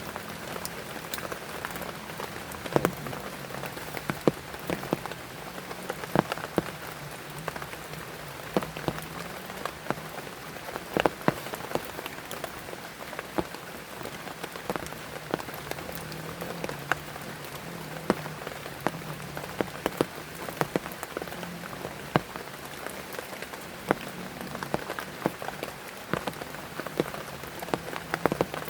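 Steady rain falling, with heavy drops striking a surface close by in frequent, irregular sharp taps.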